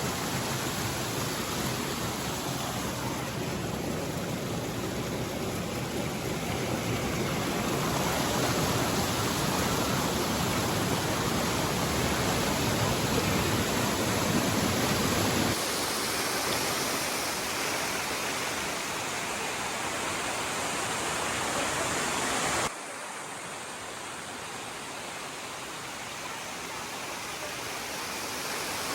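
Steady rush of a small multi-tier waterfall cascading over rocks, its level dropping abruptly about halfway through and again about three-quarters through.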